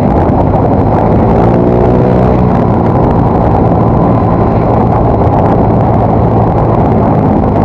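Yamaha Mio Soul GT scooter's single-cylinder four-stroke engine running on the move through an aftermarket exhaust, a steady, loud note whose pitch shifts a little partway through.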